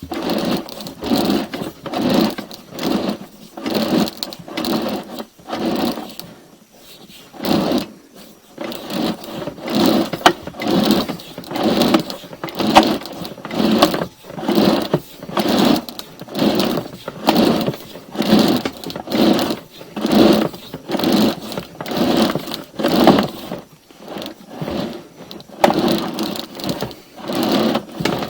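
Rhythmic mechanical clatter, about two pulses a second with two short pauses, typical of a sewer inspection camera's push cable being pulled back and wound onto its reel.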